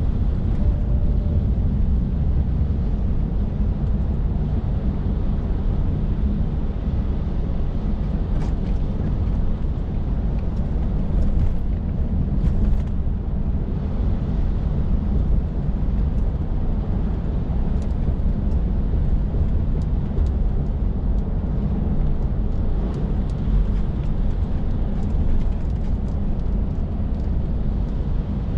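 Scania R450 lorry under way, its 13-litre six-cylinder diesel and the road noise making a steady low rumble, with a few faint ticks now and then.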